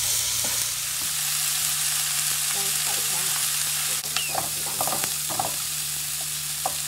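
Sliced onions sizzling in an oiled wok while a wooden spatula stirs and scrapes them against the pan. A steady frying hiss runs underneath, with short scraping knocks from the spatula.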